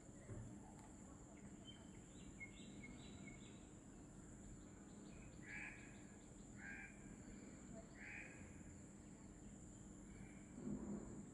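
Faint bird calls. A quick run of short high notes is followed by three harsh calls about a second apart, over a steady high hiss, with a soft low thump near the end.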